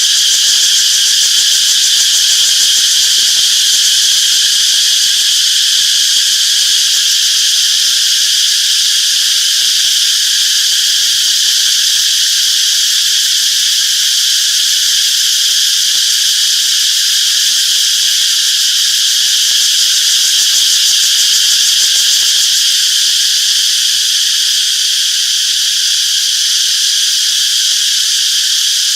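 A dense chorus of cicadas chirping, a steady high-pitched shrill that holds level without a break.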